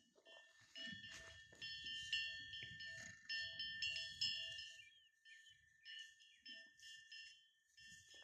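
Small bells jingling and ringing at several pitches, with light knocks; busiest in the first few seconds, then thinning out after about five seconds.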